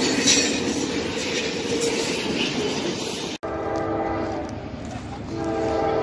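Train rolling past with steady wheel-on-rail noise. After an abrupt cut a little past halfway, a locomotive horn blows a steady chord of several notes, fades briefly and then sounds again louder near the end.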